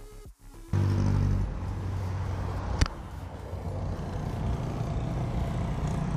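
Road traffic noise with a motor vehicle's engine hum, starting suddenly about a second in and strongest just after. A single sharp click comes near the middle.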